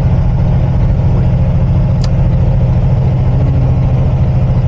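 Semi-truck's diesel engine droning steadily under load as the truck climbs slowly uphill, heard from inside the cab. A single sharp click about two seconds in.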